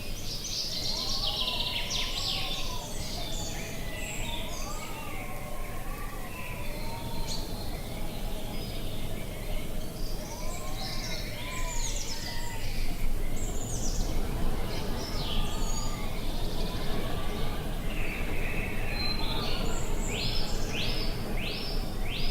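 Countryside ambience: several birds chirping and singing over a steady low rumble of wind. Near the end, one bird gives a quick run of repeated sweeping notes, about two a second.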